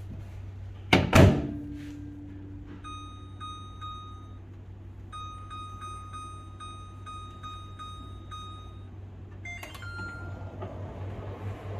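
Microwave oven door shut with two loud knocks, then a string of short keypad beeps as the time is set. Near the end a click and a tone start the oven, and its fan hum comes in.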